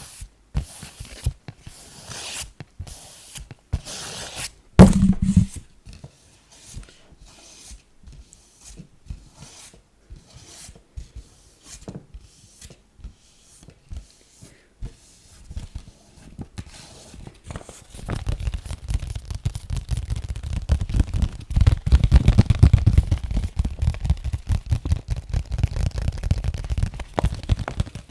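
Close-miked ASMR tapping and scratching on objects: a few scratchy strokes, a single heavy thump about five seconds in, then sparse light taps. Past the middle it turns into dense, fast, louder tapping with deep thuds.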